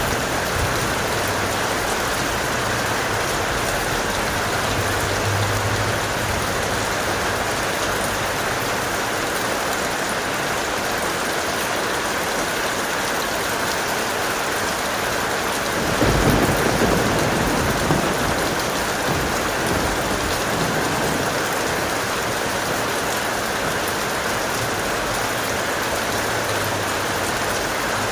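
Steady heavy rain hissing, with a low roll of thunder rumbling for a couple of seconds a little past halfway.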